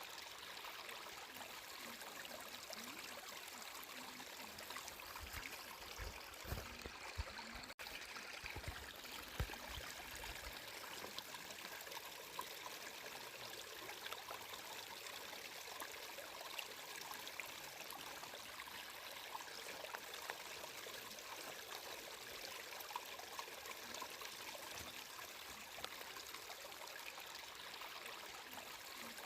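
Flowing water trickling and babbling steadily, with a few low thuds between about five and ten seconds in and a momentary gap about eight seconds in.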